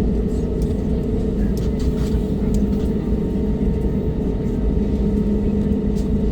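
Steady low rumble of an airliner cabin on the ground, with a couple of constant hums and a few faint ticks.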